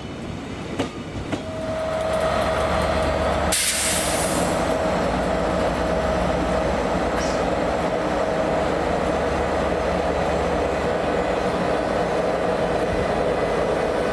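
Caledonian Sleeper train running past, its rumble and wheel noise building about a second and a half in and then staying loud and steady. A steady whine sounds over it for several seconds, and there is a brief burst of hiss about three and a half seconds in.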